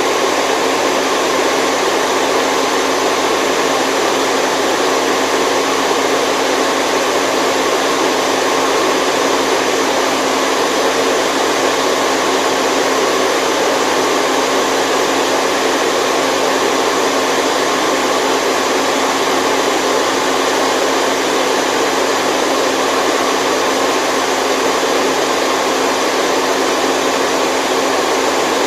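Continuous white noise for sleep: an unchanging hiss that keeps the same level throughout, with little deep bass.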